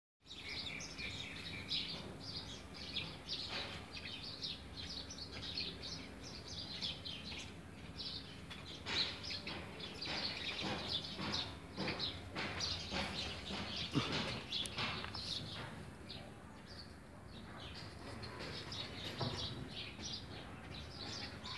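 A flock of small birds chirping, with many quick, overlapping chirps. The chirping thickens in the middle and thins out briefly near the end.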